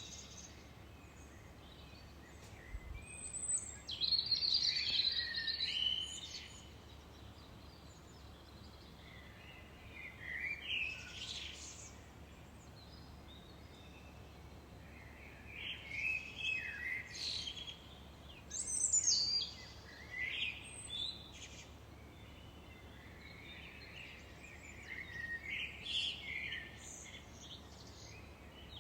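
Songbirds singing in short phrases of chirps and trills, about five phrases with quiet gaps between them, over a faint steady background hiss.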